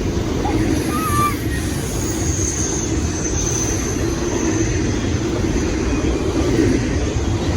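Freight train rolling past, a loud steady rumble of wheels and cars on the rails, with a thin high squeal about two seconds in that lasts a few seconds.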